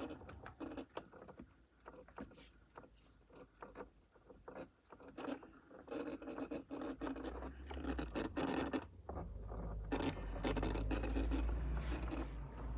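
Irregular clicking and scraping from behind the dashboard of a Toyota Avensis T25: the failing heater flap motor, the fault behind the strange dash noise. A low hum comes in about seven seconds in and grows louder after nine.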